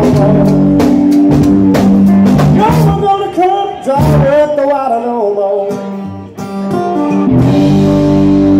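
Live blues-soul band with guitar and keyboards playing, drum strikes under bending guitar lines, then the band settles into a long held chord near the end.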